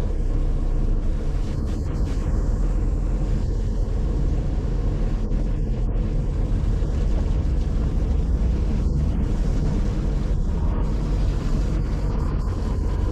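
A car driving along: steady engine and road rumble.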